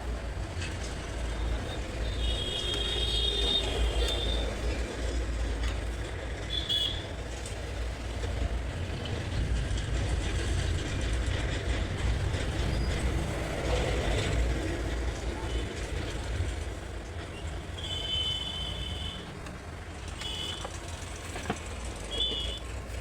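Steady low rumble of background traffic, with a few short high-pitched beeps or horn-like tones now and then.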